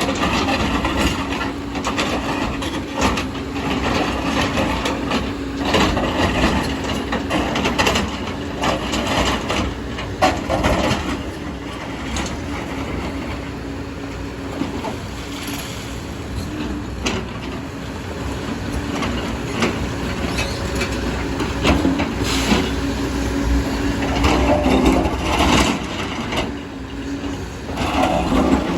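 Diesel engine of heavy earthmoving machinery running steadily under load, with repeated clanks, knocks and scraping of earth and rock being dug and loaded.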